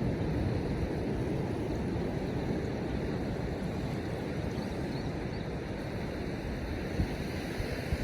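Surf washing on the beach with wind in a snowstorm: a steady low rushing noise. A couple of brief low thumps of wind hitting the microphone come near the end.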